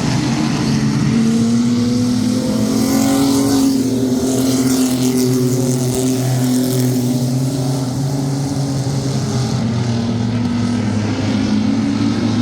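Field of sport trucks (compact pickup race trucks) racing around an oval, several engines running hard with their pitch rising and falling as they accelerate out of the corners and come past.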